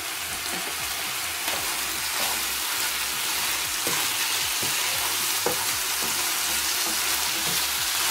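Chicken pieces and sliced mushrooms sizzling in oil in a frying pan with a steady hiss, stirred with a wooden spoon that gives a few light taps against the pan.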